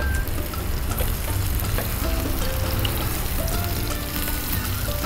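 Button mushrooms, sliced red onion and green chillies sizzling in hot oil in a non-stick frying pan while a spatula stirs them, being fried until browned. Faint background music plays from about two seconds in.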